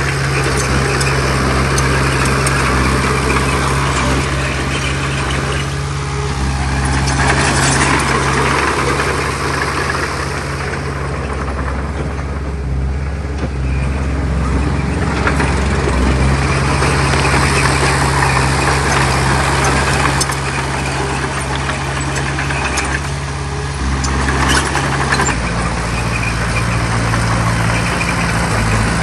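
Heavy diesel earthmoving machinery running under load. A steady low engine hum shifts pitch a few times, and several seconds-long swells of clattering, grinding noise rise and ease off as it works.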